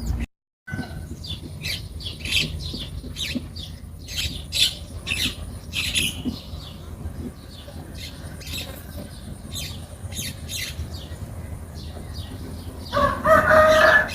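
Many short, high bird chirps in quick succession, then a rooster crows near the end.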